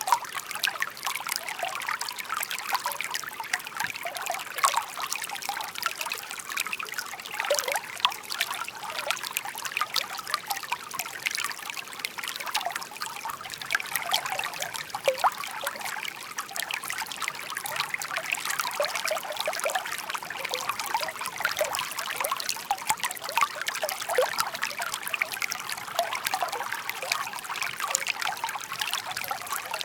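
Shallow stream babbling over stones: a steady trickling rush of water with many small splashes and gurgles.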